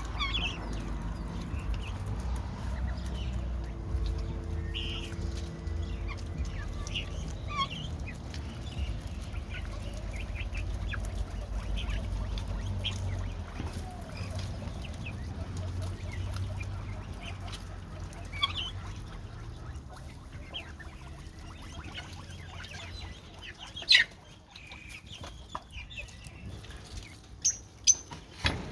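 Scattered short, soft clucking calls of a domestic fowl over a steady low rumble, with a few sharp knocks near the end.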